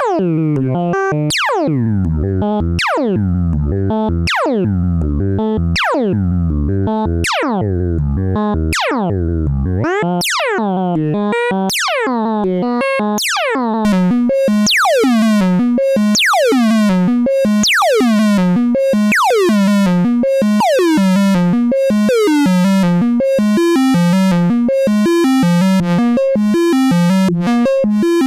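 Eurorack synthesizer voice built on the Synthesis Technology E950 circuit-bent oscillator, playing a repeating sequence of plucked notes about one every second and a half. Each note has a bright attack that quickly falls away. About ten seconds in the notes move higher and lose their deep bass, and from about fourteen seconds they turn brighter and fuller.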